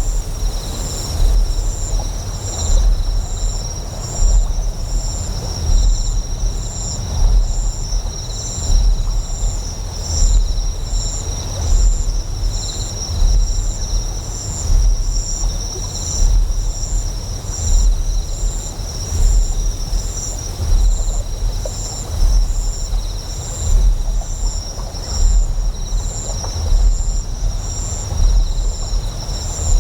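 Deep, steady generator hum that swells in a slow rhythm, about once every second and a half. Over it, insects chirp continuously in high, even pulses.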